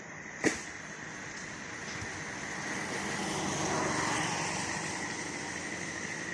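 A road vehicle passing by, its noise swelling smoothly to a peak and easing off over a few seconds. There is a single sharp click about half a second in, and a faint steady high-pitched tone in the background.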